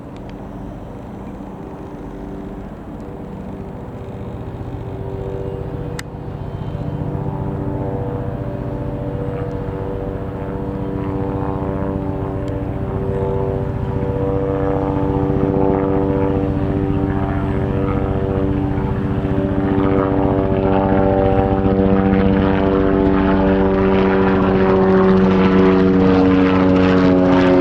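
Bell 505 Jet Ranger X helicopter running, its rotor and engine giving a steady hum of several tones with a fine blade chop, growing steadily louder.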